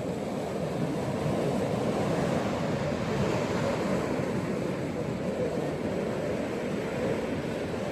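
Ocean surf washing onto a beach: a continuous rush of breaking waves that swells slightly a couple of seconds in.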